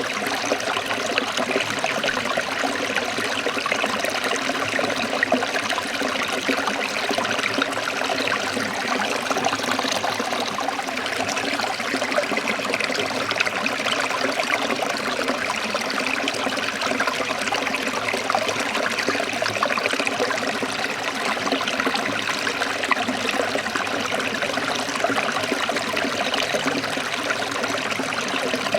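Forest stream of water trickling and babbling over rocks, steady and continuous.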